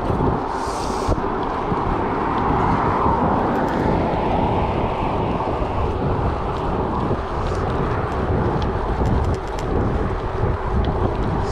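Gravel bike riding: wind buffeting the microphone over the steady rumble of tyres rolling on gravel, with scattered small ticks and a brief hiss about half a second in.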